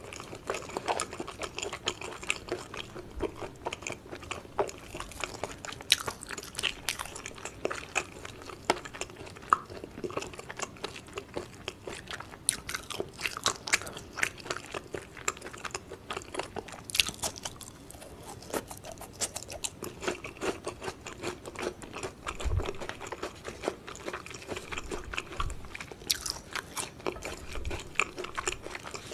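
A person chewing and biting food, with many small, irregular crisp crunches and mouth clicks, as raw beef tartare and crisp julienned white slices are eaten.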